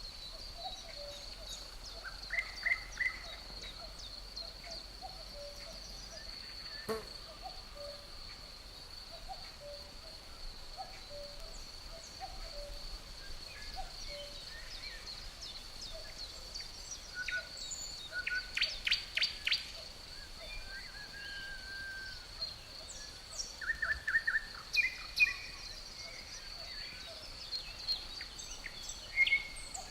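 Forest ambience: crickets keep up a steady high trill throughout while songbirds break in with quick series of sharp chirps, about 2 s in, around the middle, again a few seconds later and at the very end. Soft low notes repeat through the first half, and a single sharp click comes about 7 s in.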